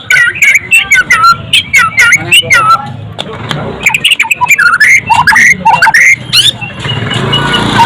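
White-rumped shama (murai batu) singing a fast, varied song of whistled glides and sharp clicking notes, with only brief breaks.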